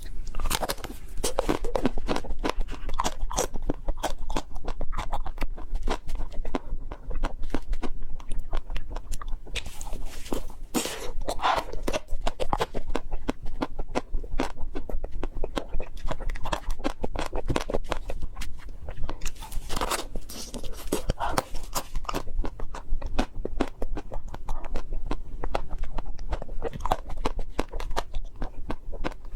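Close-miked biting and chewing of a chocolate-coated ice cream bar, with the crisp chocolate shell crackling in a dense run of small crunches that keeps going without pause.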